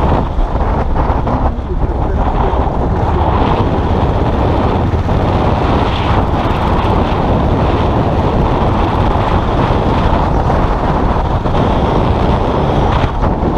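Motorcycle engine running steadily while riding, mixed with wind buffeting the microphone.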